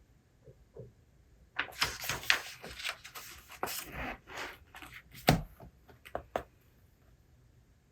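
Objects being handled on a desk: a few seconds of rustling mixed with quick clicks and taps, with one sharp knock near the end.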